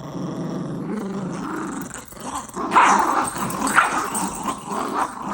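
Yorkshire terrier puppies growling as they play tug-of-war over a sock. A steady low growl at first, then louder, sharper growls about halfway through.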